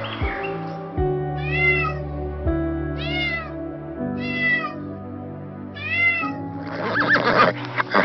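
A cat meowing four times, each meow short and arching up and down in pitch, about a second and a half apart, over soft background music. Near the end a horse whinnies, louder than the meows.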